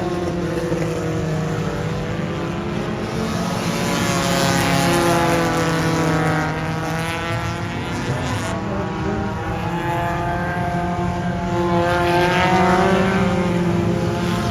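Race car engines running hard around a dirt oval track during hot laps. The engine note swells as cars pass by, about five seconds in and again near the end, with the pitch bending up and down.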